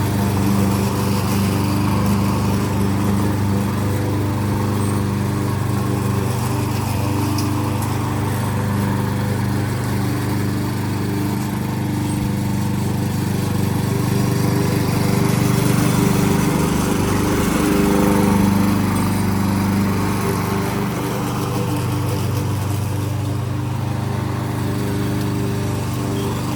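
Yardworks front-wheel-drive gas lawn mower engine running steadily while mowing grass. Its note wavers briefly about two-thirds of the way through.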